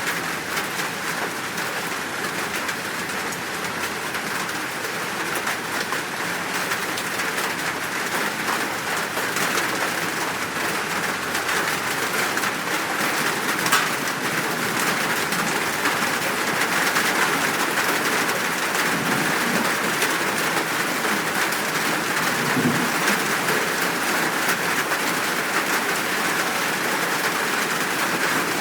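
Steady rain falling, with birds calling through it. One sharp drip-like click sounds about halfway through, and a faint low rumble of distant thunder comes about two-thirds of the way in.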